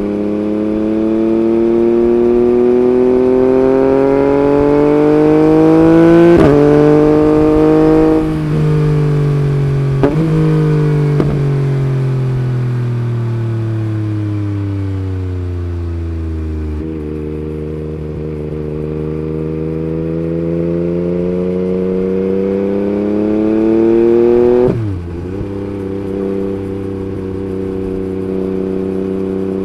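Yamaha MT-09 gen 3's three-cylinder engine through an Akrapovic Racing Line carbon exhaust, pulling up through the revs with quick-shifter upshifts. The rising pitch drops suddenly about six, eight and a half and twenty-five seconds in. In between, the revs fall away slowly as it slows, with two short sharp cracks around ten and eleven seconds, then hold and build again.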